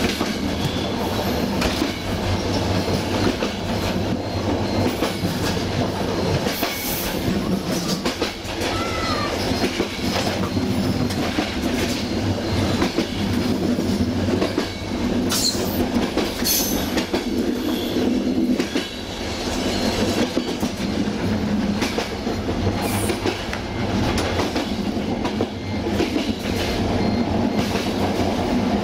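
Passenger train running along the line, heard from the rear of the train: steady rail rumble with the clickety-clack of wheels over rail joints and a few short high squeals.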